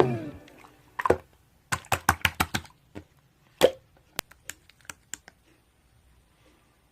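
Background music ending, then a series of light clicks and taps: a quick run of about six near two seconds in, a couple more, then a few fainter ticks.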